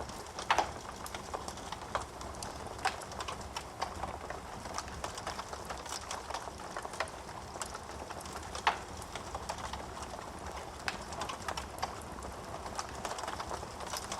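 Wood fire crackling in a fireplace: a steady soft hiss with irregular small pops and clicks, and a few louder snaps of burning wood about half a second, three seconds and eight and a half seconds in.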